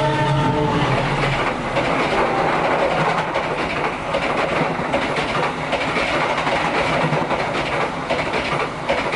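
A train running along the track: a loud, steady rumble with rapid clicking of the wheels over the rails. A steady horn tone dies away in the first second.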